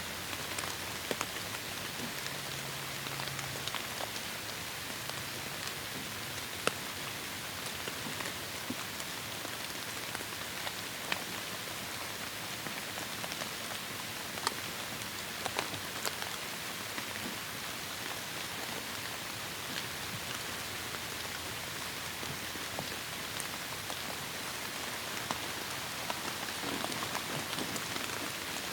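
Heavy rain falling steadily, a dense even hiss with the sharp ticks of single drops scattered through it.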